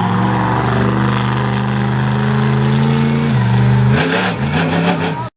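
Monster truck engine running loud at steady revs, dropping in pitch a little after three seconds and then revving up and down unevenly, before the sound cuts off suddenly near the end.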